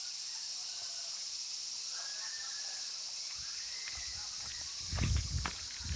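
Insects, crickets or similar, trilling in a steady high chorus. Near the end, loud low rumbling blows on the microphone cut in over it.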